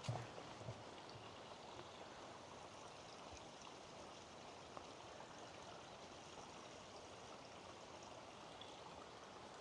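Faint, steady rush of distant running water from a forest stream, with a couple of soft footsteps on the trail near the start.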